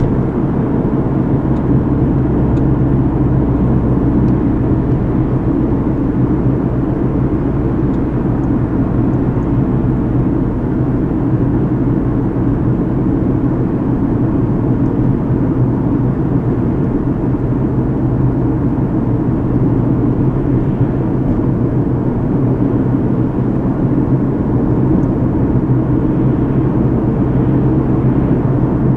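Steady road and engine noise inside a moving car's cabin: a constant low rumble with a steady hum underneath.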